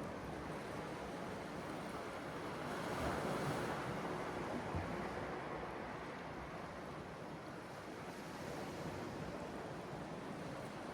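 Sea waves washing onto the shore, a steady rush that swells about three seconds in and eases off again.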